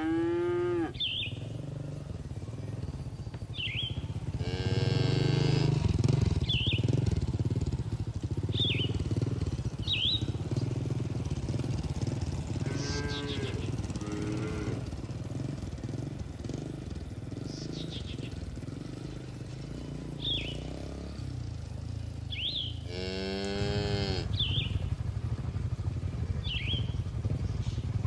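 Cattle mooing, about four long moos spread across the span, each with a drawn-out lowing tone. Between them a bird gives a short, sharp high chirp every second or two, over a steady low rumble.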